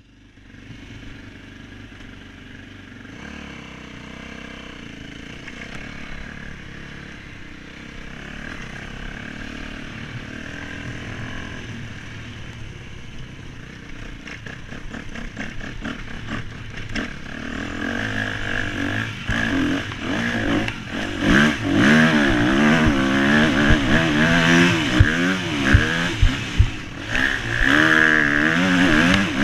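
Motocross bike engines, faint at first and growing steadily louder, then revving up and down repeatedly over roughly the last ten seconds.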